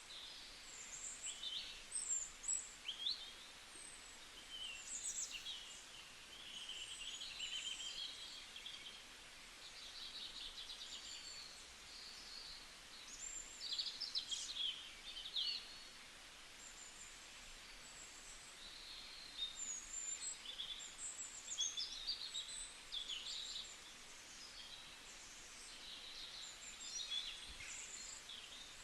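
Several birds chirping and singing together, with many short, high-pitched calls and quick sliding notes overlapping throughout, over a faint steady outdoor hiss.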